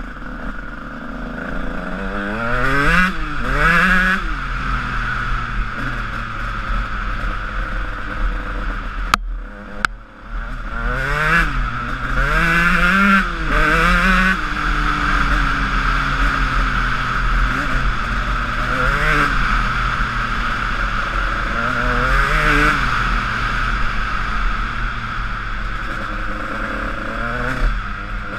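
Honda CR125 two-stroke motocross engine revving up and falling back again and again while riding. About nine seconds in there are two sharp knocks, and the engine sound drops away briefly before picking up again.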